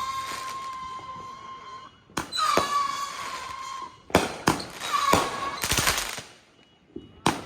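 Fireworks going off: sharp bangs, each followed by a steady high whistle that holds for one to two seconds, three times over, then a short burst of crackling hiss and one more bang near the end.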